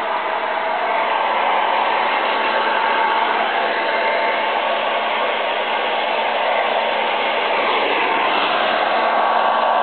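Hair dryer blowing steadily, a constant rush of air over a motor hum, with its sound shifting a little as the airflow moves about.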